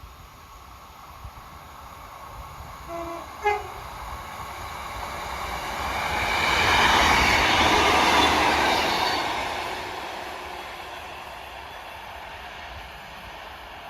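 Train passing, its rumble building to its loudest about seven seconds in and then fading away, with a short two-note horn toot about three seconds in.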